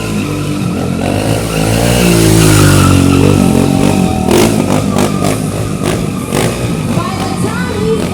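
Stunt motorcycle's engine revving hard, rising in pitch about two seconds in and then dropping back, followed by a series of sharp clicks and tire noise as the bike is worked through a freestyle trick.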